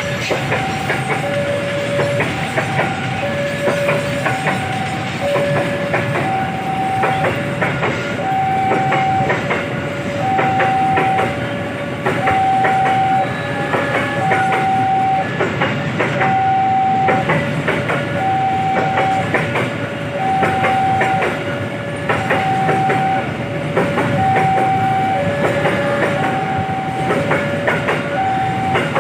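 Level crossing warning alarm sounding a two-tone signal that alternates high and low, over a passing train whose wheels clack over the rail joints. The alarm signals that the gate is closed for an approaching or passing train.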